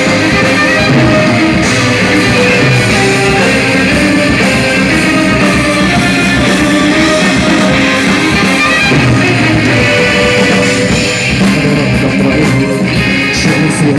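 Rock band playing live in an instrumental passage without vocals, electric guitar to the fore over bass, keyboards, violin and drums. The music is loud and continuous.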